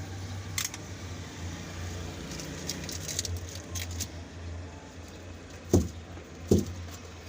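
Scattered light clicks and taps over a steady low hum, then two heavy thumps about two-thirds of a second apart near the end.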